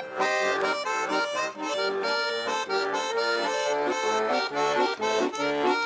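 Accordion playing an instrumental break in a song: rhythmic repeated chords with a melody line over them.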